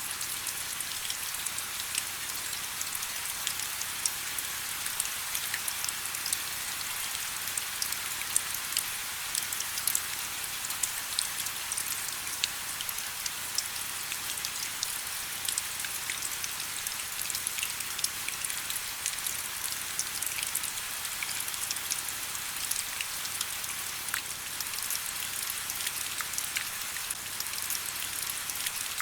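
Steady rain falling, a continuous hiss dotted with many close individual drop patters.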